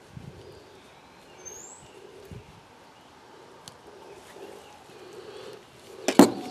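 Quiet outdoor air with a single short rising bird chirp about two seconds in, then a sharp clatter near the end, the loudest thing heard.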